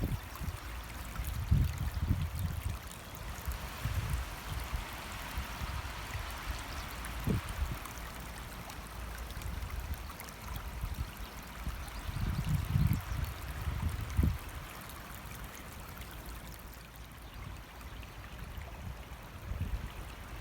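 Stream water flowing steadily, with irregular low thumps and rumbles now and then, strongest in a cluster about two-thirds of the way through.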